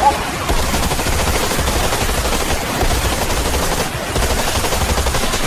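Sustained rapid automatic gunfire: a dense, unbroken rattle of shots.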